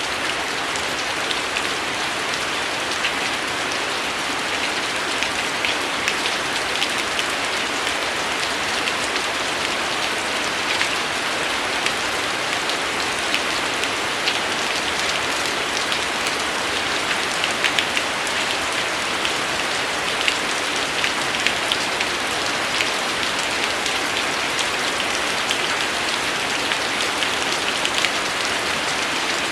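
Steady rainfall, an even hiss with many individual drops ticking on a hard surface throughout.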